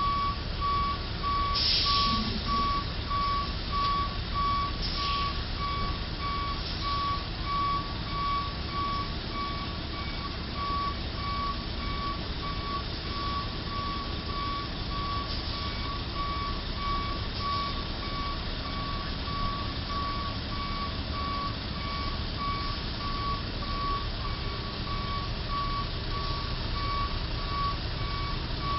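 A truck's backup alarm beeping steadily at an even rate, as the truck reverses, over low engine and traffic rumble. Two short hisses come in the first few seconds.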